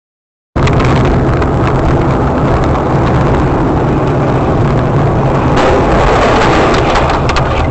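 Loud, continuous vehicle driving noise from a dash cam, road and engine rumble, starting abruptly about half a second in.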